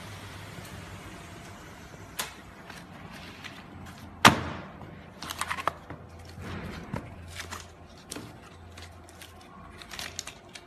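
Cut pieces being handled on a flatbed cutting table: a sharp knock about four seconds in, then scattered clicks and taps, over a low steady hum.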